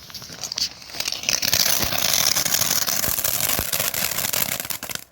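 Firework fountain burning: a steady spraying hiss with scattered crackles that builds up over the first second, holds, then cuts off abruptly near the end.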